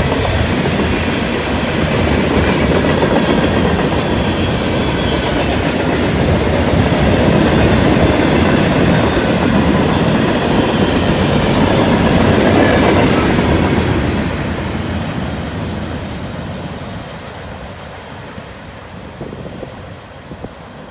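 Norfolk Southern freight train's cars rolling past, wheels clicking over the rail joints; the sound fades away gradually from about two-thirds of the way through as the train moves off.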